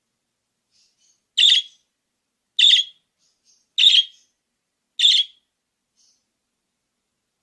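Budgerigar calling: four short, sharp chirps evenly spaced a little over a second apart, with a few faint soft chirps between them.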